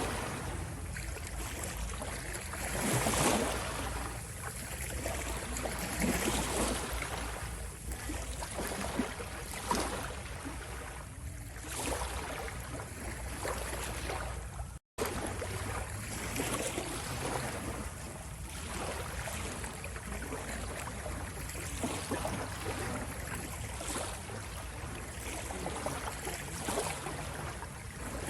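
Ocean waves washing in, a continuous rush with swells every two to three seconds over a low steady rumble. The sound cuts out for an instant about halfway through.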